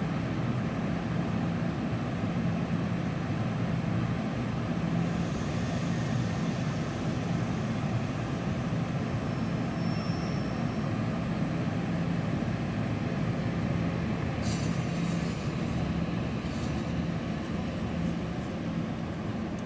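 Commuter train of bilevel coaches pulling slowly out of a station, with a steady low engine hum throughout. A high hiss joins in about five seconds in and again near the end as the train moves off.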